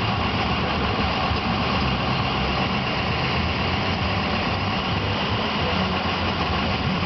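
Ford Powerstroke diesel engine idling roughly and unevenly, a crazy idle that is the sign of a failing ICP (injection control pressure) sensor.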